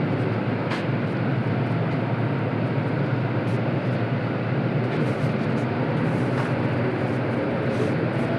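Scania K230UB city bus underway: its diesel engine and road noise run steadily, with a few light rattles.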